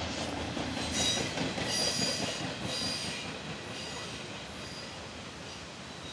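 Double-stack freight train's last well cars rolling past, their steel wheels squealing in high-pitched screeches that come and go for the first few seconds, then the rumble fades as the train moves away.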